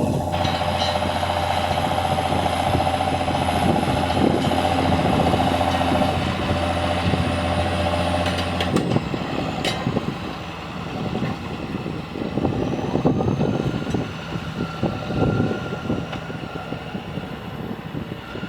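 John Deere tractor engine running steadily with an even drone. About halfway through, the drone drops away and an uneven, fluctuating rumble with a faint whine takes over.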